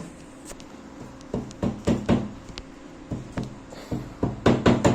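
Irregular knocks and taps, one group about a second in and a faster cluster near the end, over a faint steady hum.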